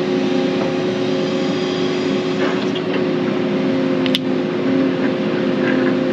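Excavator's diesel engine running steadily under work, with one sharp click about four seconds in.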